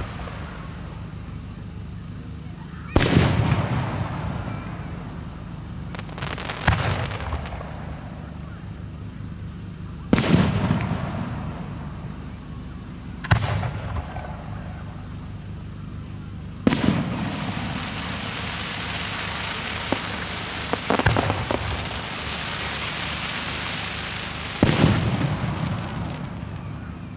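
Professional display fireworks: a series of about seven loud aerial shell bursts, one every three to four seconds, each bang trailing off over a second or two, with a steady hiss between them.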